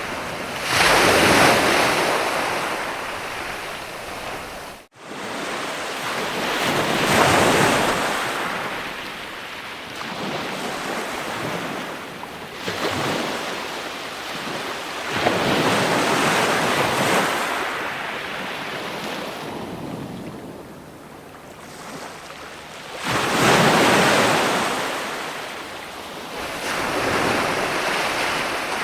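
Ocean waves breaking and washing up the shore, the surf rising and falling in slow surges every several seconds. The sound cuts out for an instant about five seconds in.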